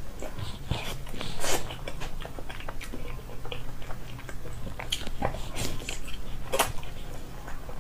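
Close-up biting and chewing of soft, fatty braised pork belly (bazi rou), with many irregular wet, clicky mouth sounds and a few louder smacks.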